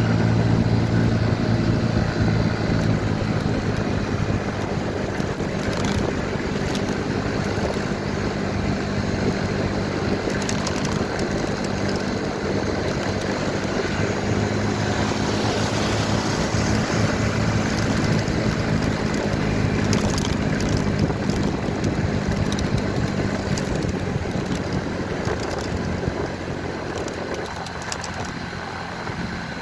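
Motorcycle engine running steadily while riding, mixed with wind and road noise; the engine note weakens and the overall sound drops slightly near the end.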